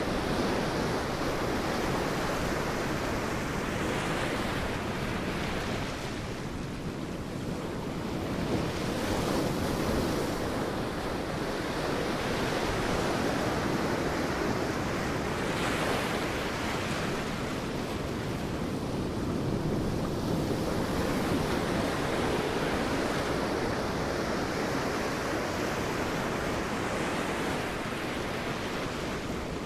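Sea waves breaking and washing on a beach in a continuous surf, swelling roughly every five or six seconds, with some wind on the microphone.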